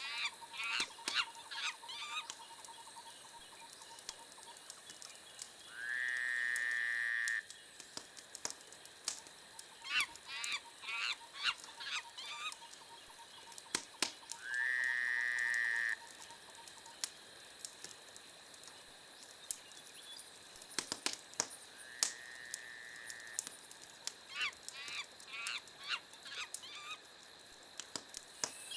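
Wood fire crackling with sharp pops, under a repeating pattern of animal calls: a burst of quick chirps followed by one long call, three times over, about eight seconds apart.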